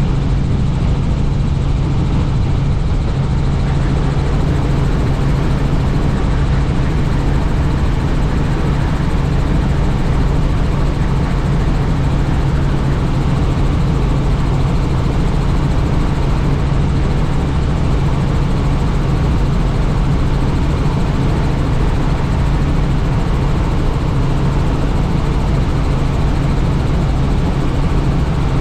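Helicopter in flight heard from on board: steady rotor and engine noise with a constant low hum.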